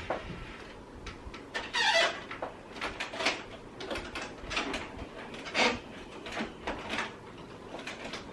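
Plastic squeaks, creaks and light knocks from an Epson WF-3620 inkjet printer being handled and its parts worked, with one squeak falling in pitch about two seconds in.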